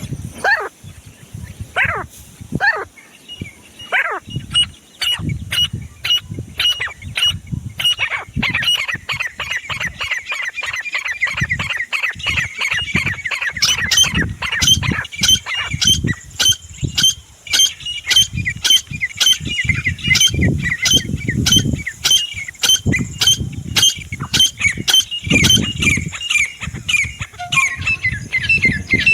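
Grey francolin (desi teetar) calling: a few separate rising notes, then a fast, continuous run of repeated high call notes from about a quarter of the way in.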